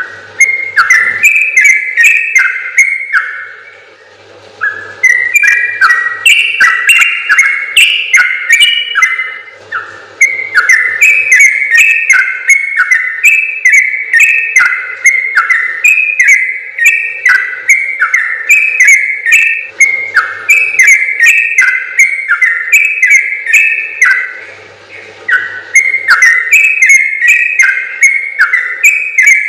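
Yellow-vented bulbul (trucukan) singing long, rapid runs of quick whistled notes stepping up and down. The runs break off briefly about 4, 10, 20 and 25 seconds in.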